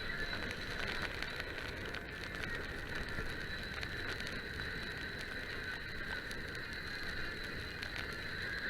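Mountain bike rolling along a trail, its freewheel ticking and its parts rattling in a steady stream of small clicks.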